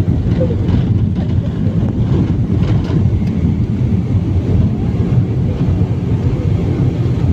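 Loud, steady low rumble of a BAe 146 jet airliner heard from inside the cabin, on the ground just after landing.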